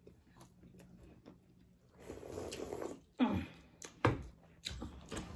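Eating sounds from chewing spicy chicken wings: faint mouth noises at first, then a rustle, a short loud nasal sound about three seconds in, and a couple of small knocks.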